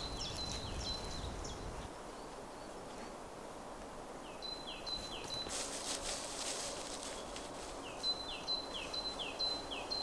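A songbird singing a short phrase over and over, a high steady note alternating with a short falling note about twice a second, in three bouts, over faint forest background hiss.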